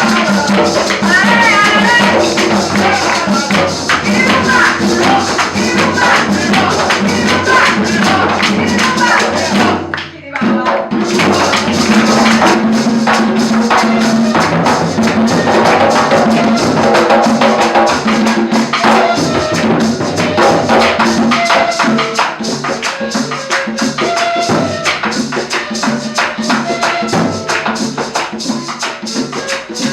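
Live cumbia band playing loudly, with a voice singing over it in the first part. The music drops out abruptly for a moment about ten seconds in, then carries on.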